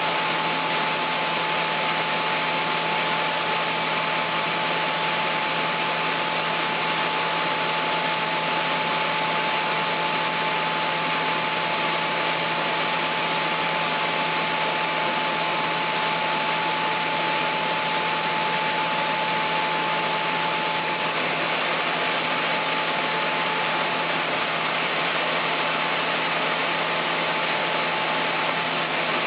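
Sawmill machinery running steadily: an even mechanical noise with one constant high whine and a low hum beneath it.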